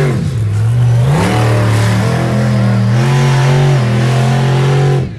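Monster truck engine revving hard. The pitch dips and climbs in the first second, then holds high and steady, and the sound drops away suddenly near the end.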